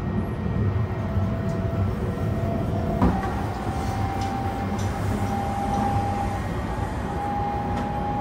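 Running noise inside a moving car of the Sunrise Seto, a 285-series electric sleeper train: a steady low rumble from the car in motion. A single sharp knock comes about three seconds in.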